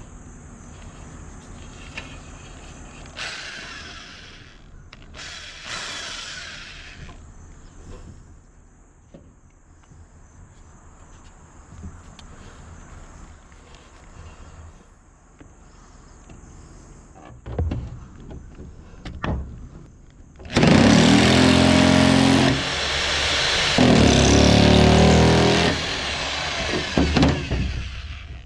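Power nibbler cutting a hole through the wall, its motor and punching running loud and steady in two runs of a few seconds each, starting about twenty seconds in, then a few short spurts. Before that, only faint handling noise and a couple of brief hisses.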